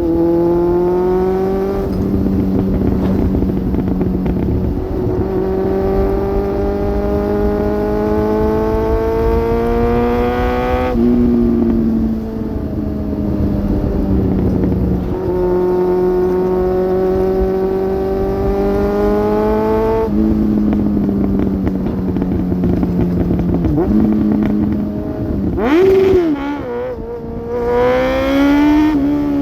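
2002 Suzuki GSX750F inline-four engine through a Black Widow exhaust, pulling under load with its note climbing steadily, dropping sharply at two upshifts about a third and two-thirds of the way through. Near the end the revs fall away, flick up in a quick blip, then climb again as it pulls away.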